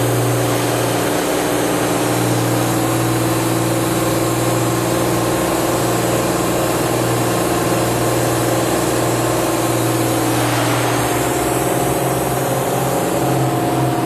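Toshiba MPF-2114C bridge-type vertical machining center running: a loud, steady mechanical hum with several held tones over a broad whir. About ten and a half seconds in, the tones shift and a new higher one sets in.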